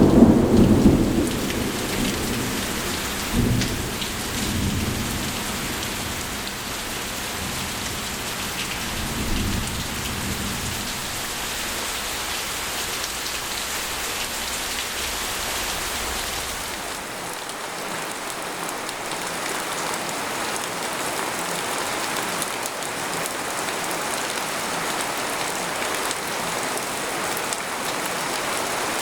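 Steady rain falling on a tent, with a loud roll of thunder right at the start and a few fainter rumbles over the next ten seconds, after which only the rain remains.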